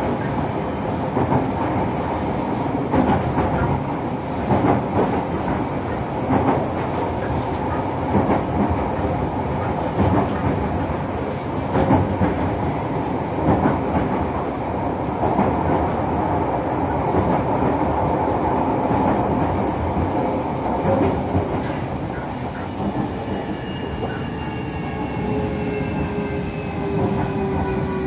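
Interior running sound of a JR Kyushu 305 series electric train, heard from its motor car: steady wheel-on-rail rumble with regular clicks over the rail joints. Near the end a set of whine tones from the VVVF inverter-driven traction motors starts gliding slowly downward as the train slows.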